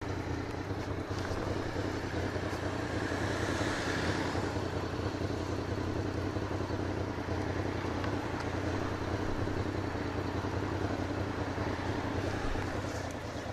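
Honda VFR motorcycle riding at a steady speed: a constant engine hum under steady road and wind noise.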